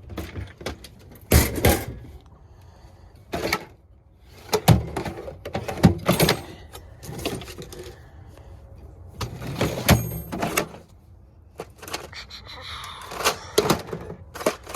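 Irregular sharp clicks, clacks and knocks of hand tools and metal parts being handled during repair work on a rooftop HVAC unit's wiring, with a brief metallic ring about ten seconds in.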